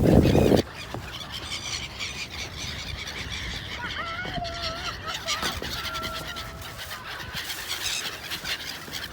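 Gulls calling: a loud, harsh burst in the first half second, then fainter wavering calls about four to six and a half seconds in, over an outdoor background.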